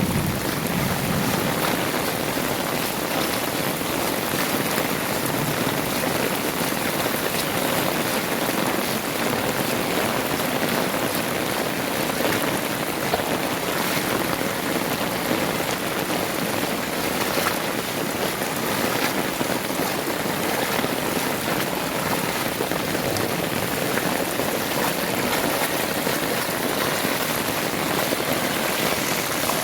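Heavy rain falling steadily, an even hiss of downpour striking surfaces.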